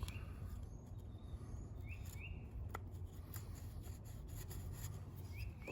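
Faint outdoor background with a bird giving a few short rising chirps, spaced a second or more apart, and a single light click about halfway through.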